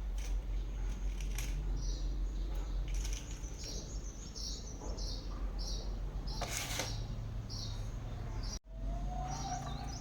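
Birds chirping in short, high calls repeated every half second or so over a low steady hum.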